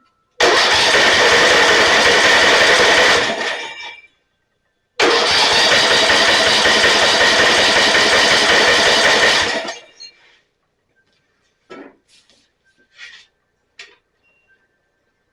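Electric starter cranking a Snapper riding mower's 12.5 hp Briggs & Stratton engine in two bursts of about four seconds each, the engine turning over without firing, which the owner takes for a lack of spark. A few faint clicks follow near the end.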